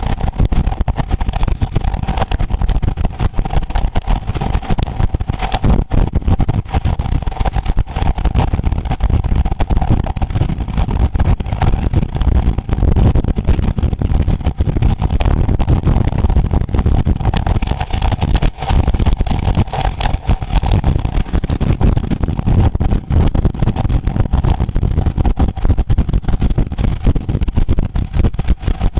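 Loud, continuous wind buffeting on a camera microphone at road-cycling speed, with a steady mid-pitched hum underneath.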